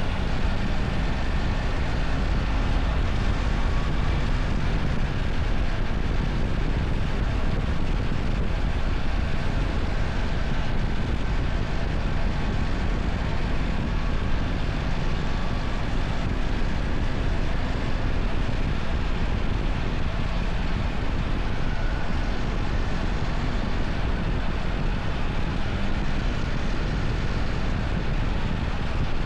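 BMW R1300 GS's boxer-twin engine running steadily while riding, mixed with wind rushing over the microphone.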